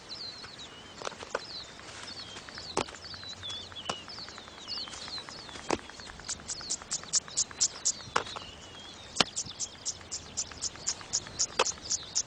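A stone thrown by an Egyptian vulture knocking sharply against a tough ostrich eggshell, about eight strikes at irregular intervals. Behind it, birds chirp in the first half, and from about halfway there is a rapid, even insect chirping.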